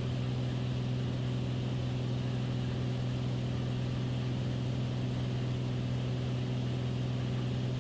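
Beechcraft Bonanza's piston engine and propeller droning steadily in level cruise, a constant low hum over even cabin noise.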